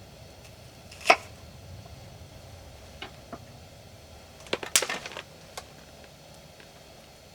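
Scattered hard knocks and clicks, as of kitchen work at a camp table: one sharp knock about a second in, a couple of light clicks, then a brief run of clattering knocks a little past the middle.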